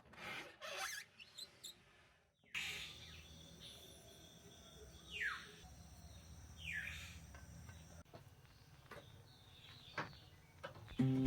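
Birds calling outdoors, faint: several short calls that sweep quickly downward in pitch, the clearest two about five and seven seconds in, over a steady high tone and low background noise.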